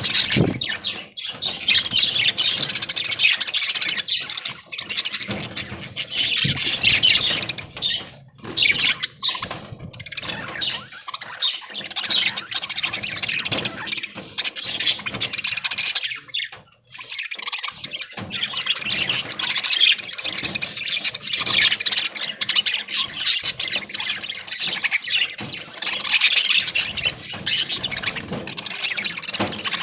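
A flock of budgerigars chattering and chirping, many short overlapping calls with only brief lulls.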